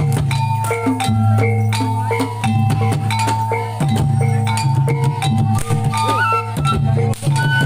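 Live reog accompaniment music: gamelan-style ensemble of drums and struck metal percussion, with frequent sharp drum strokes over deep sustained gong tones and ringing held pitches.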